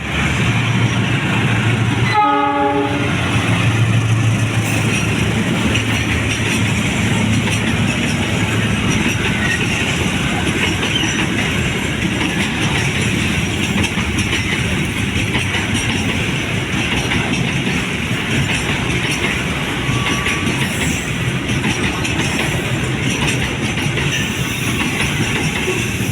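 Container freight train rolling past: a long, steady rumble and clatter of the wagons on the rails. A short horn note sounds about two seconds in.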